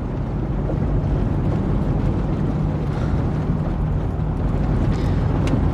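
Steady low rumble of a running vehicle, with a faint constant hum and no distinct events.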